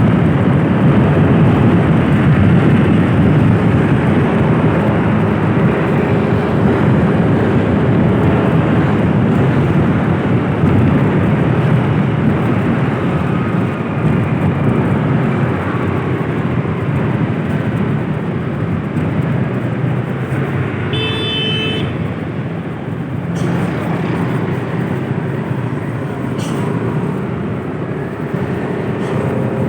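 Steady engine and road noise from a moving vehicle, continuous and fairly loud. About two-thirds of the way through comes a brief high tone lasting about a second.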